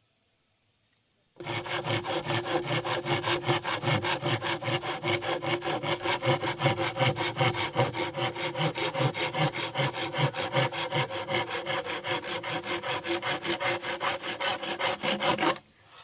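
Hand saw cutting through wood in quick, even back-and-forth strokes, about four to five a second. It starts about a second and a half in and stops abruptly near the end.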